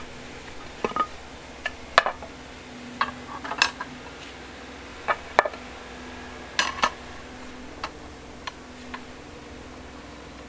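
Steel rebar being worked with metal tools: irregular sharp metallic clinks and clanks, about a dozen, some ringing briefly, over a steady low hum.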